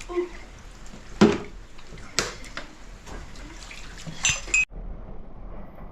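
A few sharp knocks and clinks of hard objects, the loudest about a second in, then the sound cuts off suddenly a little before the end into a duller, quieter background.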